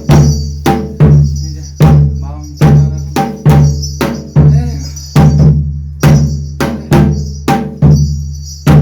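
Korean shamanic ritual percussion: a drum beaten in a steady rhythm, a heavy stroke about every 0.8 seconds with lighter strokes between, each leaving a deep ring. A high metallic shimmer sounds over it and drops out about halfway through.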